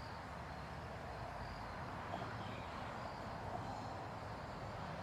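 Steady outdoor ambience: a low rumbling noise, such as wind on the microphone, with faint high chirps recurring every second or so.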